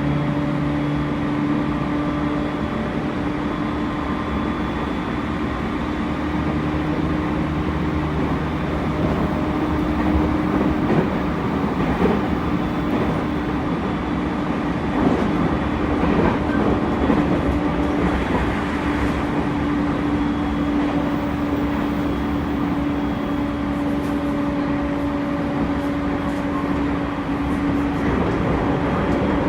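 Inside a JR East E231 series 0 electric commuter train (Mitsubishi IGBT-VVVF) running at speed: steady rolling rumble with a constant hum from the running gear, and a few light clicks from the rails partway through.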